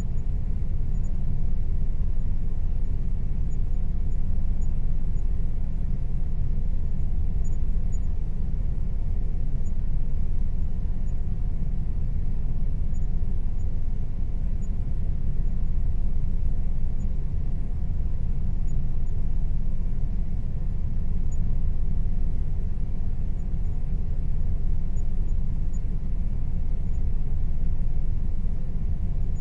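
Air conditioner running steadily: a constant low hum, strongest in the deep bass, with a faint steady whine above it.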